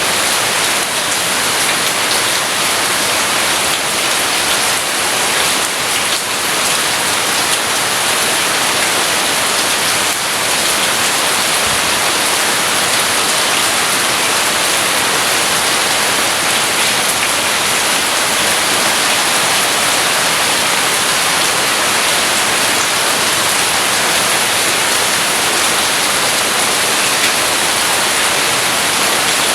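Steady rain falling: a dense, even hiss of drops with no thunder heard.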